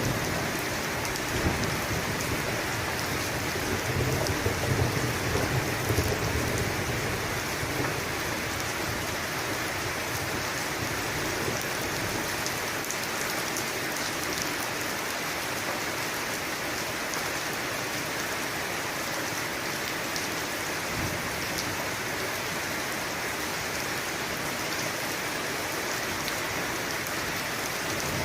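Steady rain falling. A low rumble of thunder dies away over the first several seconds.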